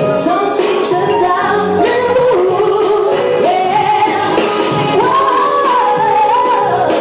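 A woman singing a song over backing music, with long held notes that slide from one pitch to the next.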